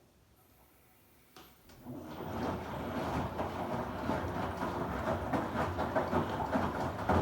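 Samsung WW90J5475FX digital-inverter washing machine starting up after a pause: a click about a second and a half in, then a churning, sloshing sound that builds over about a second and carries on steadily.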